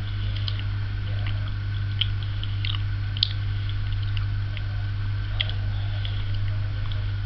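A person chewing a soft, slightly slimy matcha mochi with a cream filling: small wet mouth clicks and smacks every half second or so. A steady low hum runs underneath.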